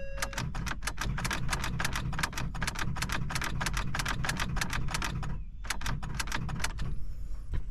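A flood-soaked Ford Taurus's engine being cranked by its starter: a fast, even chuffing for about five seconds, a short pause, then one more brief crank, and the engine never catches.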